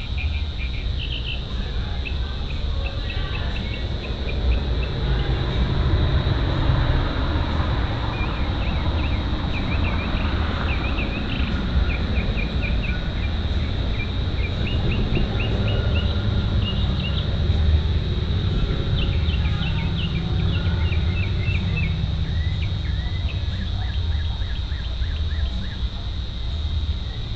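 Crickets trilling steadily with birds chirping in repeated runs of short notes, over a constant low rumble.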